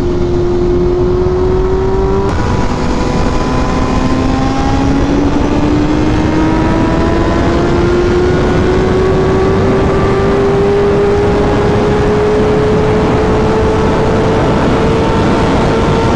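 Sport motorcycle engine under way: its note drops about two seconds in at an upshift, then climbs slowly and steadily as the bike accelerates in gear, with wind rushing over the microphone.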